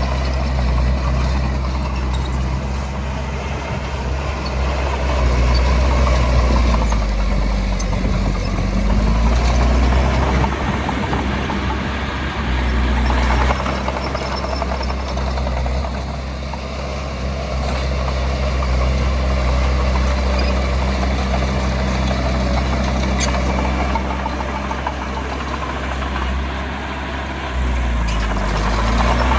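Heavy diesel engine of earthmoving machinery running continuously, its pitch and loudness rising and easing several times as the load changes.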